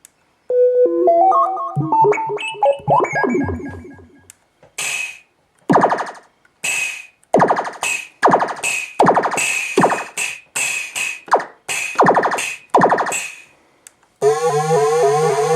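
KORG Kaossilator handheld synthesizer playing its preset sounds: first a short run of stepped bleeping notes climbing in pitch, then a rapid string of short, noisy electronic hits, and near the end a new buzzy sustained tone over a low drone.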